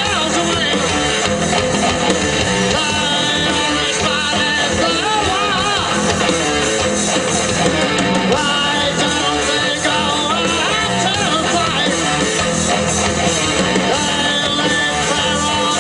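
Live rock band playing loudly with distorted guitar, bass and drums; from about five seconds in, a lead line bends its notes with a wavering vibrato.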